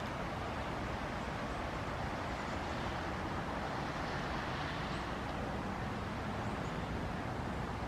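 Steady outdoor ambient noise, a constant distant traffic hum with no distinct events.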